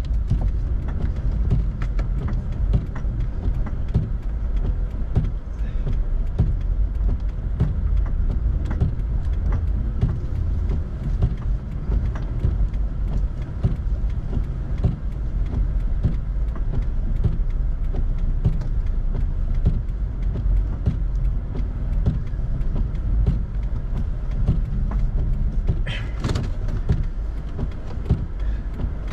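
Toyota RAV4 driving on a snowy road: a steady low road rumble with many small knocks and clicks, and one brief high squeak near the end.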